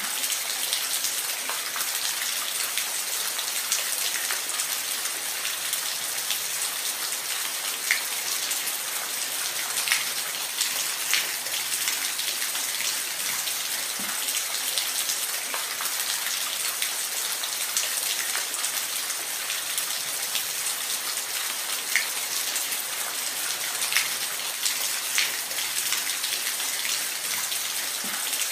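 Steady rain, a constant hiss with individual drops ticking here and there.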